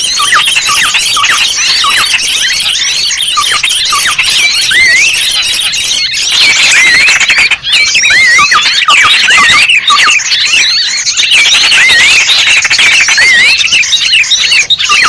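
Dense chatter of many small birds chirping and twittering over one another, loud and unbroken, with quick rising and falling whistled notes: a bird-lure (pikat) recording made to call in small birds.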